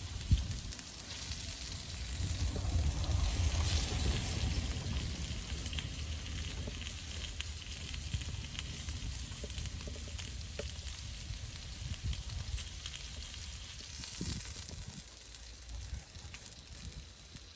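Food sizzling in a pan, a steady frying hiss. A sharp knock comes just at the start, and a low rumble swells a few seconds in.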